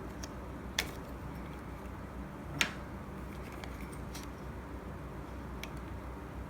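Two sharp clicks about two seconds apart, with a few fainter ticks, from tools and parts being handled while the espresso machine is taken apart, over a steady low hum.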